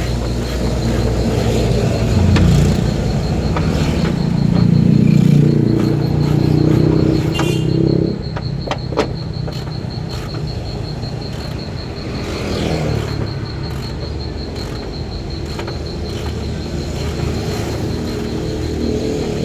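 A motor vehicle engine running, louder for several seconds and dropping away sharply about eight seconds in, with a smaller swell later. A steady, high-pitched pulsing tone runs underneath.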